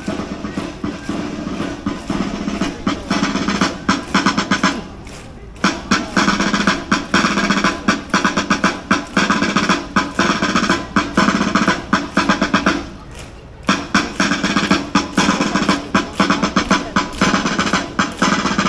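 Marching band drums playing fast snare drum rolls and beats with bass drum, breaking off briefly twice, about five and thirteen seconds in.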